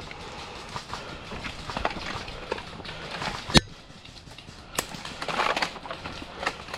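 Rustling and crunching in dry undergrowth, with two sharp cracks a little after the middle, the first the loudest.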